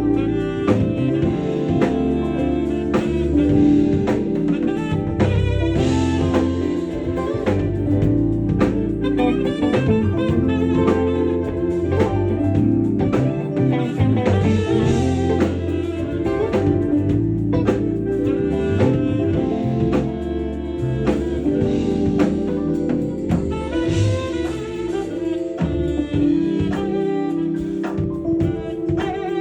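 Live smooth-jazz band playing: a saxophone lead over a drum kit and a bass line.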